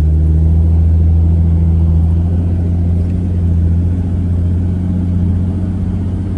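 Jeep engine running steadily while driving, a continuous low hum with no change in pitch.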